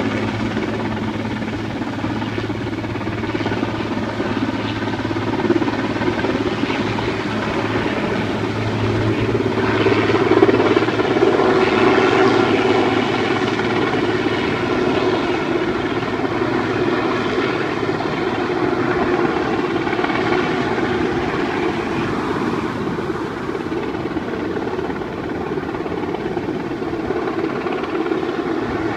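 Helicopter running steadily overhead while lifting a load, its rotor and engine noise swelling a little about ten to twelve seconds in.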